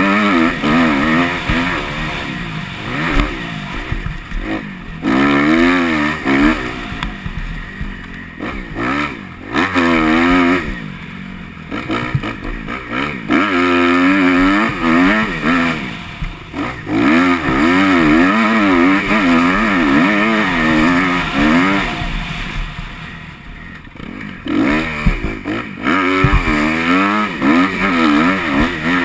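Motocross bike engine revving up and easing off over and over, its pitch rising and falling every second or two as the throttle is opened and closed, with dips where it drops back to a lower note.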